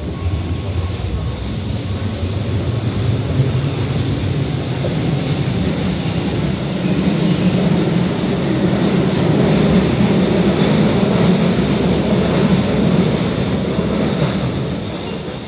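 Keihan electric commuter train running out along the station platform: a steady rumble of wheels and traction motors that swells and then fades near the end as the last car pulls away.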